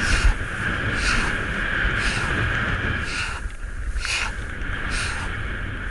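Skis hissing and scraping over snow, with a louder scrape roughly once a second, and wind rumbling on the microphone.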